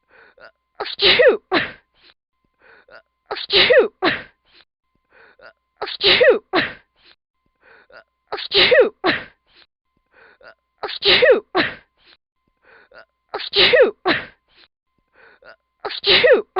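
A woman's short vocal outburst, sharply falling in pitch, repeated identically about every two and a half seconds as a looped sound effect.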